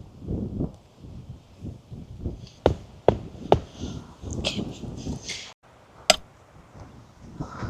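Strong gusty wind buffeting the microphone, with a few sharp knocks: three about two and a half to three and a half seconds in, and one more about six seconds in.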